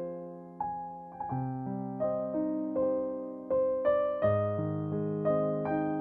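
Background piano music: slow, soft notes and chords, each struck and left to fade.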